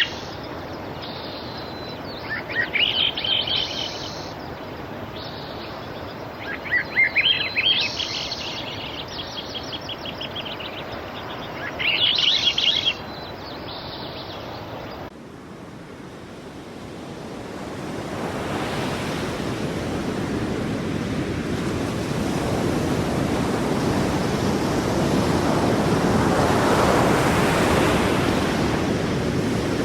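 Birds singing in three short chirping phrases over a soft hiss. About halfway through, the sound cuts abruptly to sea surf, whose wash swells steadily louder toward the end.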